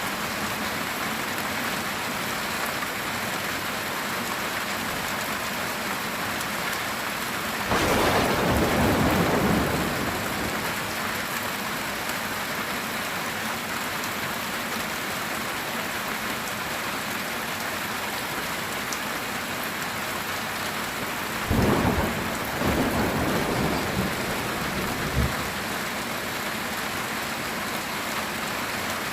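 Heavy rain falling steadily on a metal tin roof, with two thunderclaps: one rolling in about eight seconds in, and a sharper crack about twenty-one seconds in that rumbles on for a few seconds.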